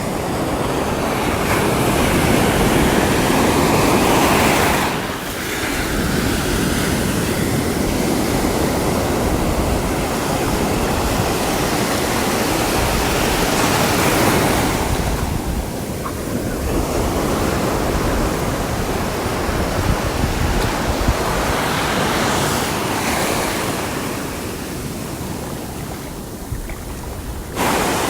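Sea waves breaking and washing on the shore, a continuous surf that swells and eases every several seconds, with a fresh wave breaking suddenly near the end.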